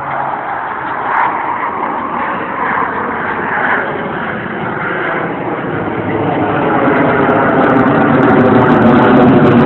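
Blue Angels jet aircraft approaching on a low pass, their engine noise growing steadily louder into a loud, rushing jet roar.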